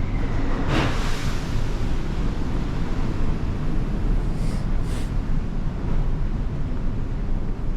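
Wind buffeting the microphone over a steady low rumble, with a short hissing gust about a second in and two brief high hisses around the middle.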